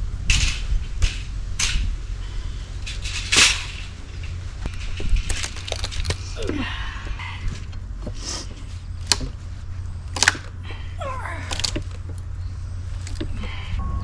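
Heavy oak log rounds being handled and loaded: scattered knocks, clunks and scrapes over a low steady rumble.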